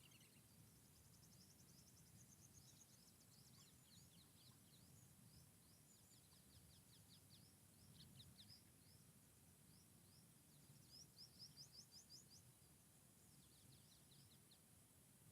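Faint forest ambience: small songbirds chirping in quick runs of short, high notes, the clearest a run of about eight notes near the end, over a low, steady background rumble.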